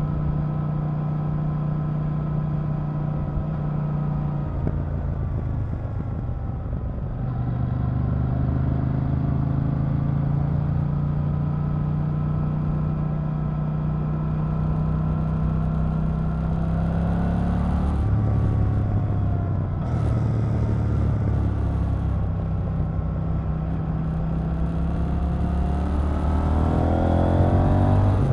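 KTM 890 Duke R's parallel-twin engine under way, holding steady revs, easing off about five seconds in, then pulling again. It climbs and changes gear around eighteen and twenty seconds, and revs up hard near the end.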